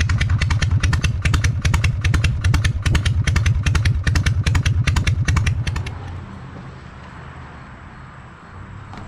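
Harley-Davidson Shovelhead V-twin idling with its loping potato-potato beat. About six seconds in the pulses stop and the sound falls away to a quieter low hum.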